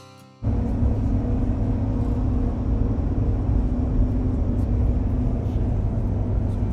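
Engine of a vehicle under way, running steadily with a heavy low rumble; it comes in suddenly about half a second in.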